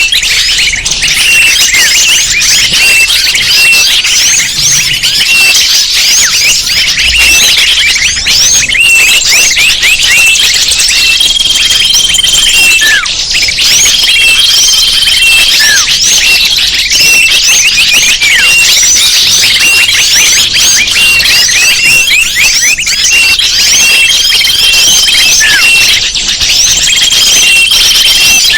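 Bird-lure recording: a dense chorus of many small birds chirping and twittering nonstop at high pitch, with a steady high whistle about a second long that recurs in pairs every several seconds and an occasional quick falling whistle.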